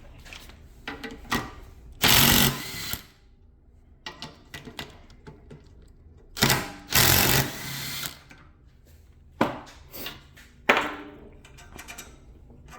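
Impact wrench running in four short bursts to break loose and spin out the 12 mm rear brake caliper bolts, with small metallic clicks between the bursts.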